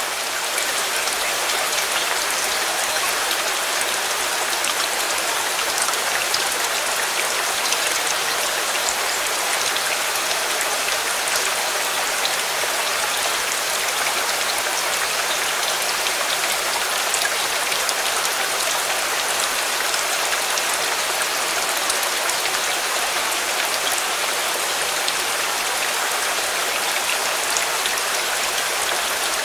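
Steady rain falling: an even hiss of rain scattered with many small drop ticks, unchanging in level.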